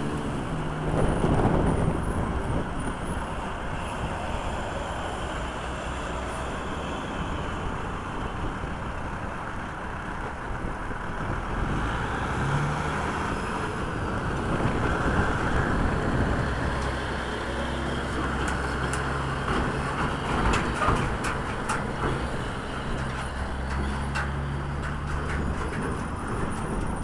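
Kenworth dump truck's diesel engine running as the truck drives, loudest about a second in. Several short rattling knocks come in the last third.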